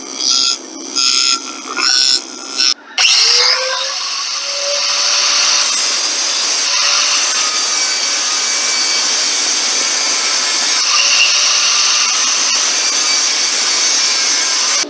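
A handheld power grinder starts about three seconds in, its pitch rising briefly as it spins up, then runs steadily while grinding metal. This fits roughly port matching the intake. It is preceded by a few short pitched sounds.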